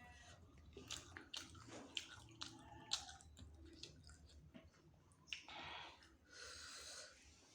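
Close-up wet chewing of chicken wings, with scattered lip-smack clicks, then two short breathy hisses near the end.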